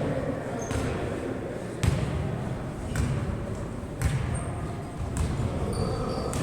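A ball bouncing with sharp thumps about once a second, over steady background noise.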